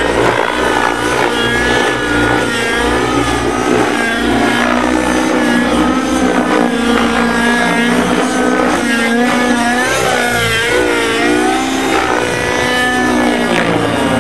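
Radio-controlled model helicopter's engine running with a steady note underneath, its higher pitch repeatedly rising and falling as the throttle changes.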